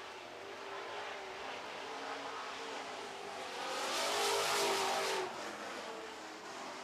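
Super trucks racing on a dirt oval, their engines at full throttle. About four seconds in, a pack of trucks passes close by, getting loud and then falling away sharply.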